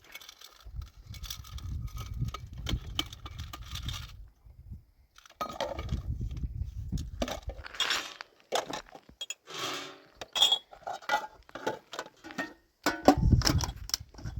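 Irregular clinking and knocking of small hard objects being handled, with stretches of low rumble.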